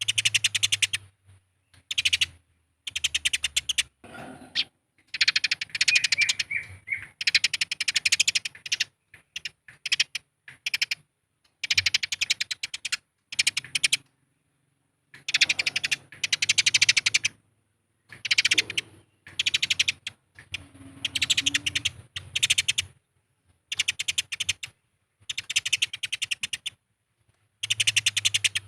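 Eurasian tree sparrows giving rapid, harsh chattering fight calls: fast ticking trills in bursts of about half a second to two seconds with short gaps between them.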